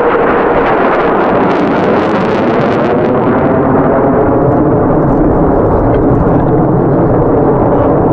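F-22 Raptor's jet engines running loud as it flies past: a dense, rushing rumble with a tone that sinks slowly in pitch.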